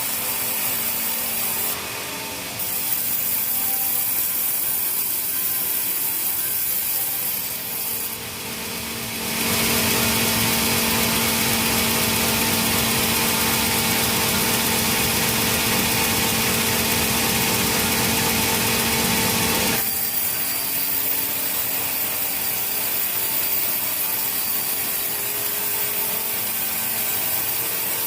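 Sawmill saw running steadily with a constant hum as it cuts teak. From about ten seconds in, the sound grows louder and fuller while the blade works through the wood, then drops back to the steady running sound about ten seconds later.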